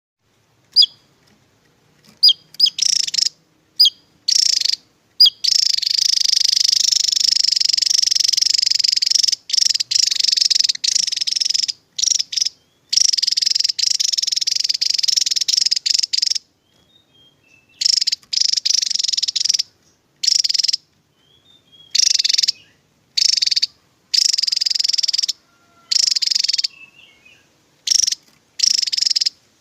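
Javan tesia singing its rapid 'tembakan' song. A few sharp, high single notes come first, then long bouts of very fast, buzzy, high-pitched trilling, some several seconds long, broken by short pauses.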